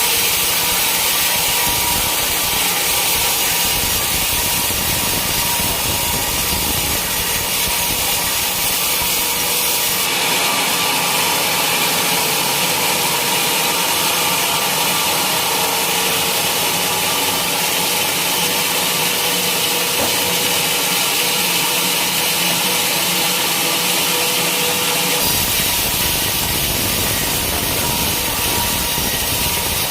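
Sawmill saw cutting through a teak log: a steady, continuous sawing noise that shifts in tone about ten seconds in and again near the end.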